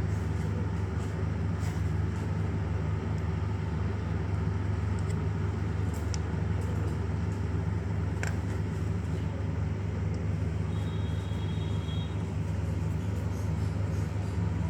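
Steady low hum in the background, with a few faint light clicks and taps of small parts being handled.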